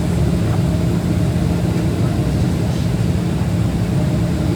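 Airplane engine drone, a steady low hum with a constant deep tone and rushing noise over it.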